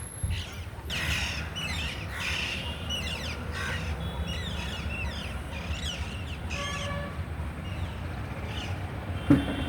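A flock of parrots calling: many short, sharp chirps and squawks that overlap and slide up and down in pitch, over a low steady rumble. A brief knock sounds near the end.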